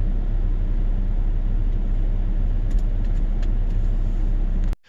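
A car idling, heard from inside its cabin as a steady low rumble; it cuts off abruptly near the end.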